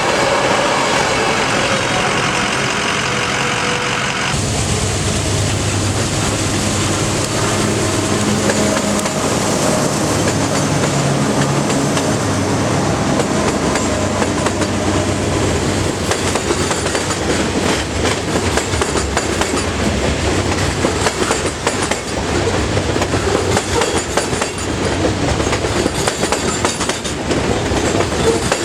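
A freight train passing close: the low drone of a diesel locomotive engine, then the steady clatter of freight car wheels over the rail joints. The sound changes abruptly about four seconds in.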